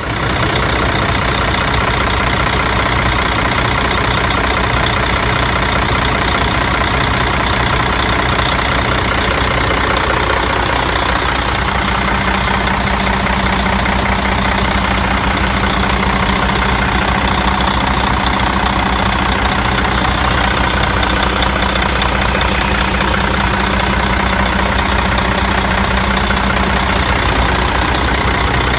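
Mercedes OM460LA 12.8-litre inline-six turbo diesel idling steadily on a test run.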